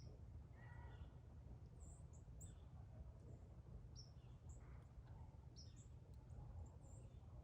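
Faint, scattered short high bird chirps over a steady low background rumble.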